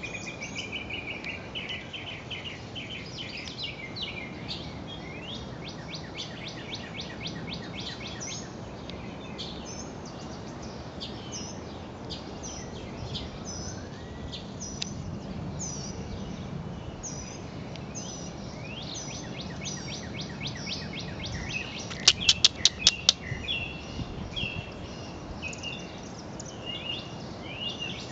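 Songbirds chirping and singing, many short high notes and trills overlapping, with a loud rapid run of about seven sharp chirps roughly three-quarters of the way through, over a faint steady background noise.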